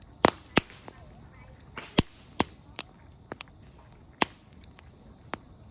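Firewood crackling in an open campfire: about a dozen sharp, irregular pops and snaps. The loudest come near the start, about two seconds in and about four seconds in.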